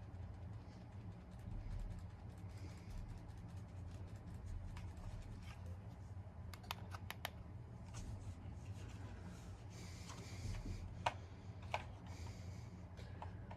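Monte Carlo Vios ceiling fan running with a steady low motor hum, with a few sharp clicks about halfway through and again near the end.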